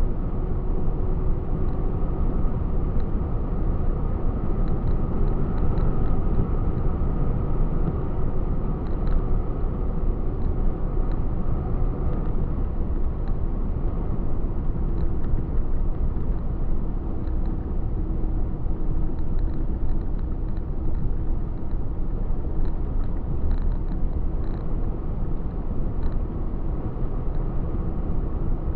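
Truck driving on the road: steady engine rumble and road noise with no let-up.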